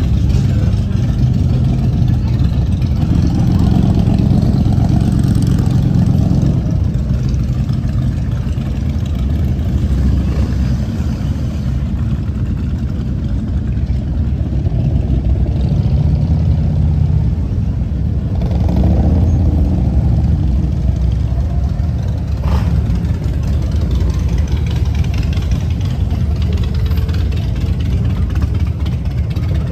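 Suzuki GSX-8R's parallel-twin engine running steadily, its note swelling twice: a few seconds in and again about two-thirds of the way through.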